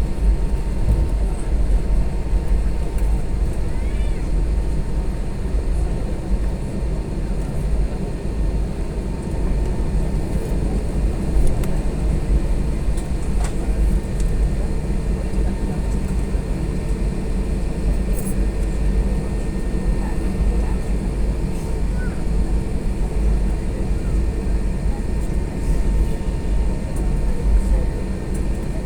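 Airbus A320 cabin noise on the ground: a steady deep rumble with a faint constant hum.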